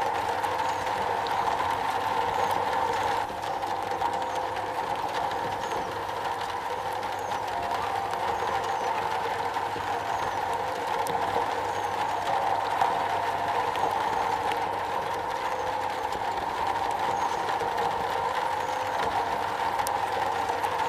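Steady rain drumming on a metal roof, a dense even patter with no break.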